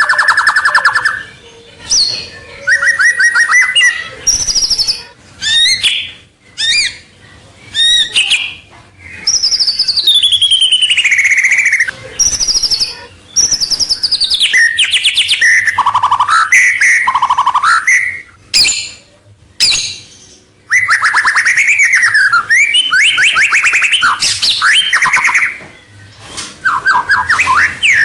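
White-rumped shama (murai batu) singing loudly in a long run of varied phrases: fast trills, falling whistled sweeps and quick strings of repeated notes, with short pauses between phrases.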